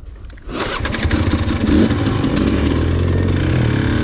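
Dirt-bike engine starting about half a second in, then running steadily, with a short swell in revs partway through.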